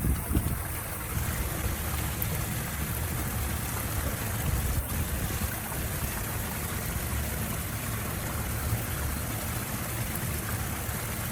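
Steady rush of flowing water with a low rumble underneath.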